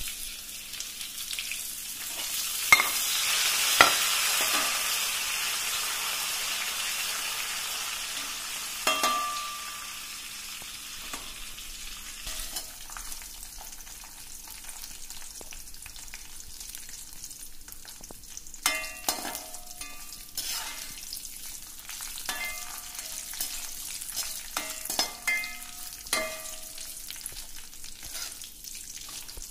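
Curry leaves, dried red chillies and garlic frying in hot oil in a metal kadai: a loud sizzle with sharp pops breaks out a couple of seconds in and slowly settles into a steady crackle. A perforated metal skimmer clinks against the pan several times.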